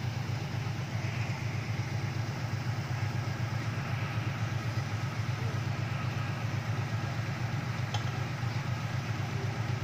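Off-road 4x4's engine idling steadily, a low even note with no revving.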